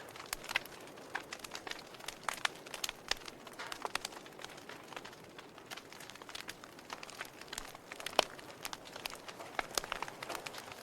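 Wood fire in a fireplace crackling: irregular sharp pops and snaps over a steady faint hiss, with one louder pop about eight seconds in.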